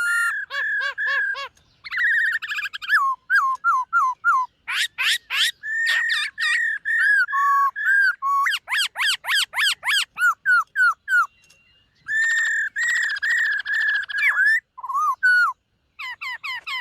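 Black-throated laughingthrush singing a varied song of clear whistled phrases: fast runs of down-slurred notes, rapid trills and sweeping glides, with short pauses between phrases.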